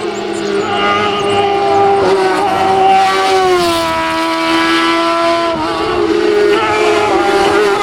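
Racing car engine held at high revs, one strong steady note that drops in pitch a little before four seconds in as the driver lifts or shifts, then holds again.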